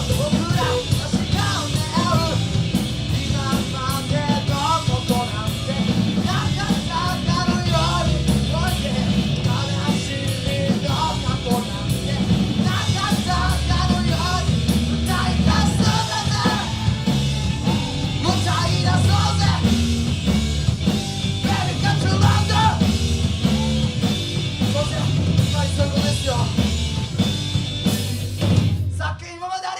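Live rock band playing with a singer: electric guitars, bass, drums and keyboard. The song stops abruptly about a second before the end.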